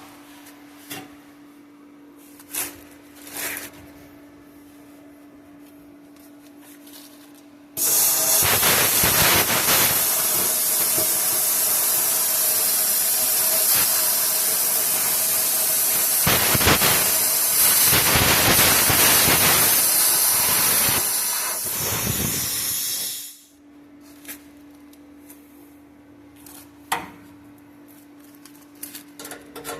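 Bestarc plasma cutter cutting through a truck's exhaust pipe: a loud, steady hiss of the arc and its air jet starts about eight seconds in, lasts about fifteen seconds and cuts off sharply. Before and after it there is a quieter steady hum and a few small clicks.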